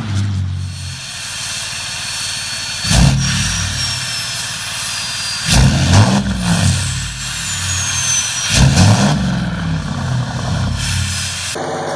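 Turbocharged diesel engine idling and blipped three times, each rev rising and falling back, with a turbo whistle that falls away after the revs.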